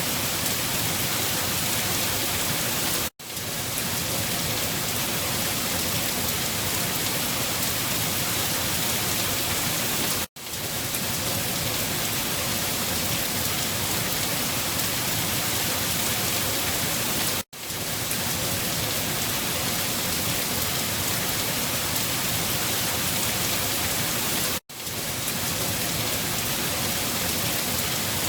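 Steady rain falling, an even hiss across all pitches. About every seven seconds it cuts out for an instant and fades straight back in, the seam of a looped rain recording.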